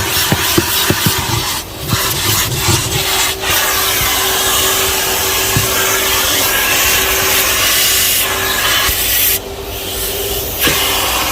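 Henry canister vacuum cleaner running with a steady motor hum while its nozzle rubs and knocks against the car's interior, most busily in the first few seconds. The suction sound briefly dulls about two seconds in and again near the end.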